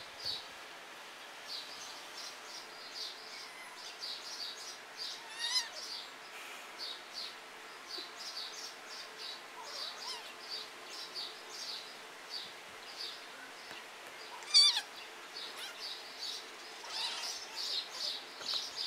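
Birds chirping, short high chirps a few times a second throughout, with a louder wavering call about three quarters of the way through.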